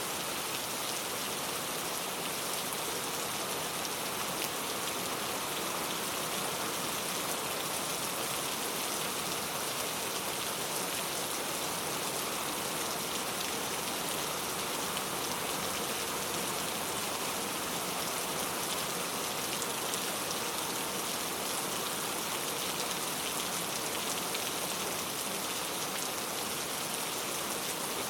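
Steady rain falling, a dense even hiss of raindrops with fine pattering detail and no change in intensity.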